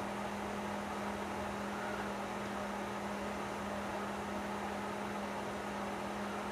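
A steady low hum with an even hiss of room noise underneath, unchanging throughout.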